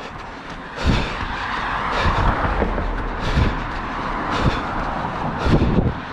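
A runner's footfalls on a dirt trail, regular thumps about two a second, over a steady rushing noise.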